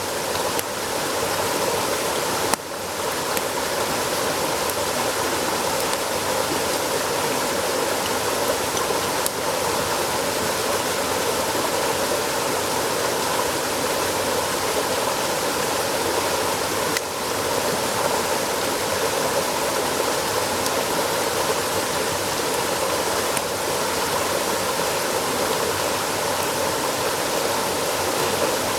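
Steady rushing of running water, with a few faint clicks over it.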